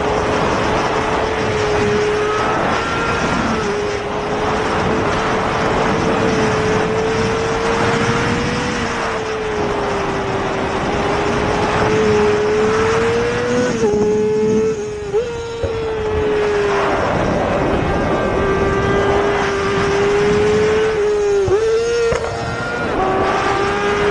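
Superbike engine running hard at a steady high pitch over rushing wind noise, the pitch wavering slightly, with two brief dips and jumps in pitch, about fifteen and twenty-one seconds in, that sound like gear changes.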